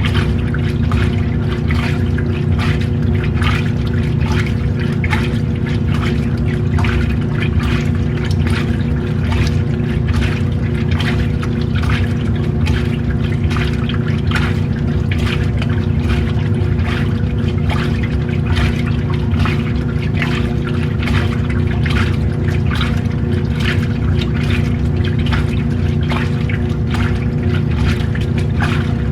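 Washing machine running: water sloshing and splashing over a steady motor hum.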